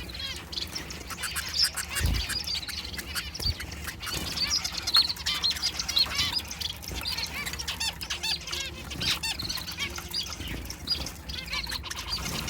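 A flock of small caged finches calling in a dense stream of short chirps and squawks, with wing flutter and scattered clicks, as they scramble over a piece of lettuce in a feeding frenzy.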